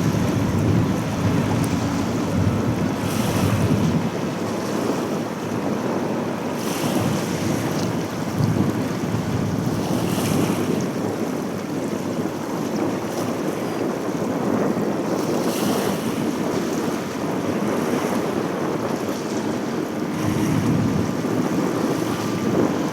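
Wind buffeting the camcorder microphone in gusts every few seconds, over a steady low rumble.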